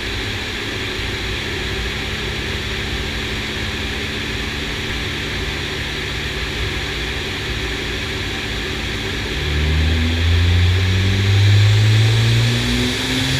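Nissan R33 Skyline GT-R's twin-turbo RB26DETT inline-six running on a chassis dyno at a steady engine speed over a steady hiss. About nine and a half seconds in, the engine note gets much louder and starts rising steadily in pitch as the dyno pull begins, dipping briefly near the end before climbing again.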